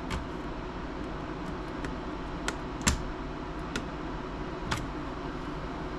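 Scattered sharp clicks and taps of hand tools and small parts on a laptop being taken apart, about five in all, the loudest about three seconds in, over a steady low background hum.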